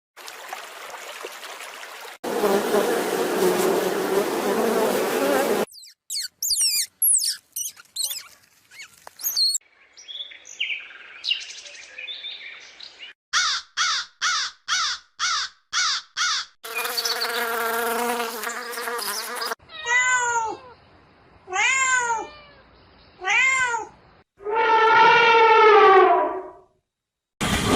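A string of different animal calls cut one after another: after a noisy start come scattered short chirps, then a quick even series of short calls, then several drawn-out calls whose pitch rises and falls.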